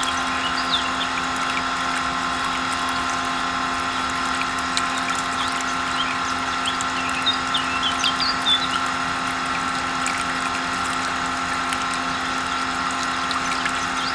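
Small electric motor running at a steady speed with an even whine, over faint bird chirps.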